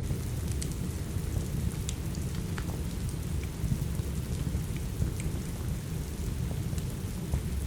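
Steady rain with a deep, even low rumble, overlaid by scattered sharp crackles and pops from a wood fire in a fireplace.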